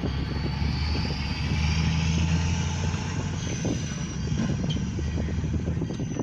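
A vehicle engine running with a steady low hum that swells about one and a half seconds in and eases after three, with a faint high whine above it.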